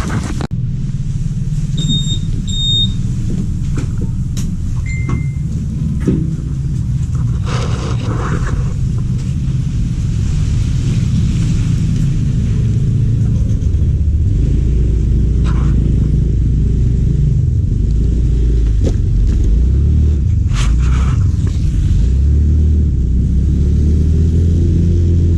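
Low, steady rumble of a running vehicle engine, growing louder and deeper about halfway through, with two short electronic beeps about two seconds in.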